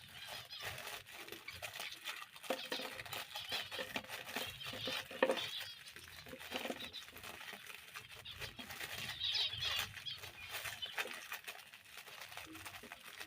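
Small cage birds chirping and twittering, with scattered short clicks and rustling throughout.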